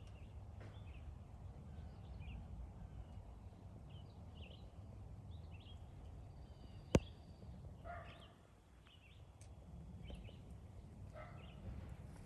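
Small birds chirping faintly and intermittently over a low rumbling background, with one sharp click about seven seconds in.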